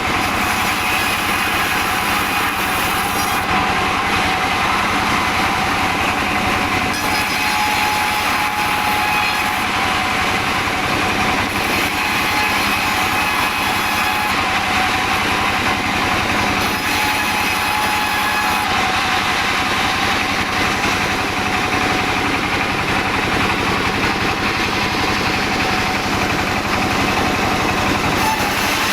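Sawmill running and sawing albasia wood: a steady, loud machine noise with a high hiss that comes and goes every few seconds.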